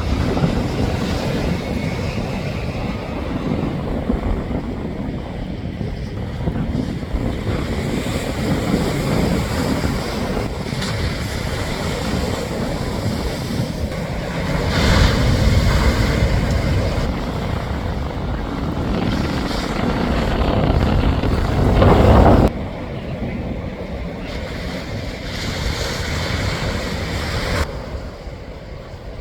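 Strong gusty wind buffeting the microphone over ocean surf, swelling into its loudest gust and then dropping off suddenly about three quarters of the way through.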